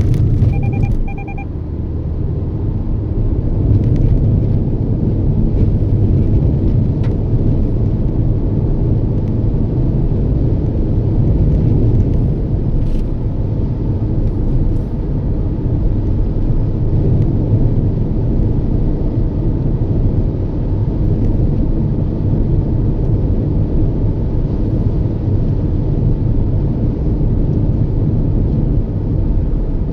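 Steady low road and engine rumble from inside a Toyota Yaris's cabin as it drives along, with two short electronic beeps about a second in.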